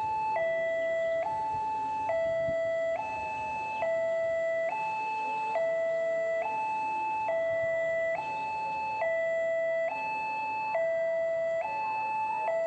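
Railway level-crossing warning alarm sounding: an electronic two-tone signal alternating between a low and a high tone, each held a little under a second, repeating steadily. The alarm means a train is approaching the crossing.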